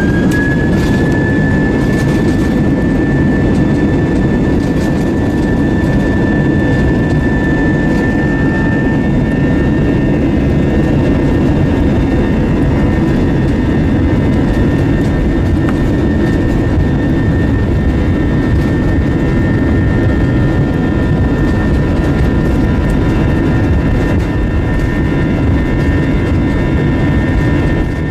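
Airbus A320's IAE V2500 turbofan engines at takeoff power, heard from inside the cabin: a loud, steady rumble with a high engine whine that finishes rising about a second in and then holds steady.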